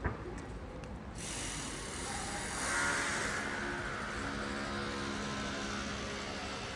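A motor vehicle passing close by in the street: engine hum and tyre hiss start about a second in, are loudest around the third second, then ease off.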